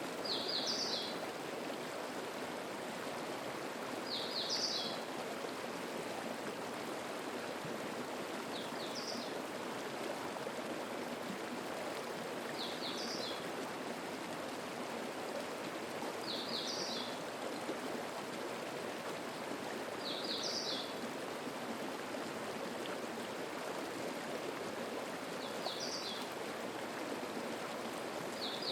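Mountain stream flowing steadily, with a small bird repeating the same short, high song phrase about every four seconds.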